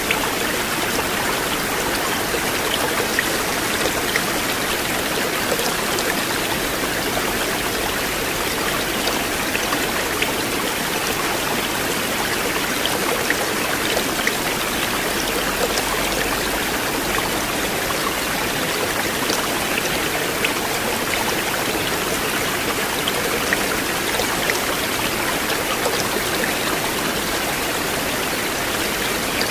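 River water flowing in a steady, continuous rush, with small splashes and drips here and there.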